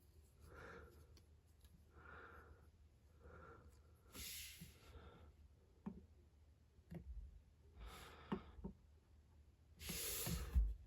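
Faint breaths close to the microphone in a quiet small room, then a few small clicks and a short rustle near the end, like objects being handled.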